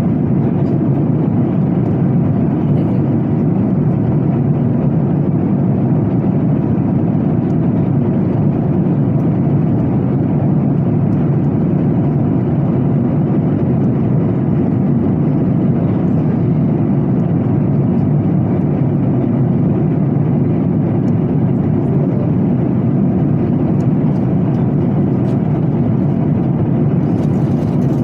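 Steady airliner cabin noise in flight: the even drone of the jet engines and rushing air, heard from inside the cabin.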